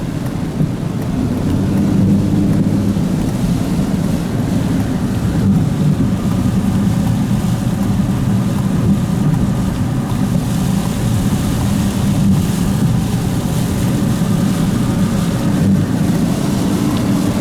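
A vehicle driving on a wet road in heavy rain: a steady low engine and road rumble under an even hiss of rain and spray.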